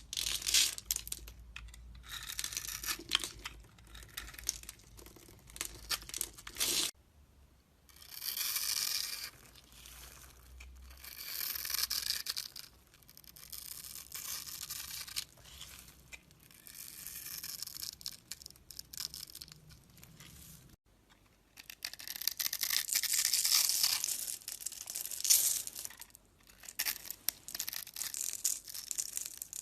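A knife scraping and cutting through bars of soap in repeated strokes, with the crisp crackle of crumbly soap breaking away; the sound changes abruptly about 7 and 21 seconds in as one carving clip gives way to another.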